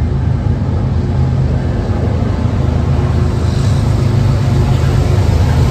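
Diesel freight locomotives running past: a steady, loud low rumble that builds slightly.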